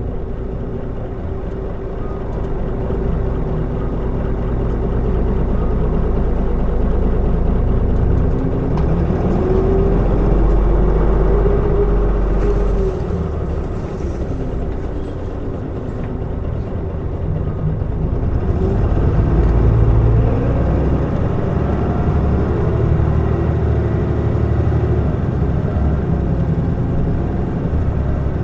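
Mitsubishi Fuso Aerostar city bus (QKG-MP35FP) under way, its diesel engine running steadily. The bus pulls harder about ten seconds in and again about twenty seconds in, and the engine note rises and shifts in pitch each time.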